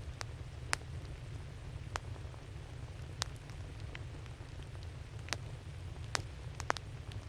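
Wood campfire crackling: irregular sharp pops and snaps of burning wood, a few louder than the rest, over a low steady rumble.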